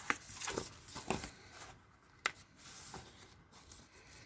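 Sheets of paper being handled and shuffled: soft rustles with a few light taps, the sharpest a little after two seconds in.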